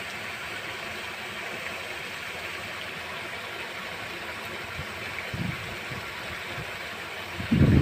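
Steady hiss of falling rain, with a brief low rumble about five seconds in and a louder low rumble near the end.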